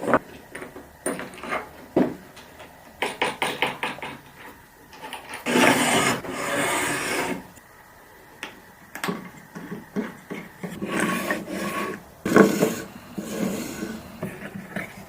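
Hand work on wooden parts: a quick run of short rasping strokes, a longer rubbing pass and uneven scraping, broken by sharp knocks of wood against wood.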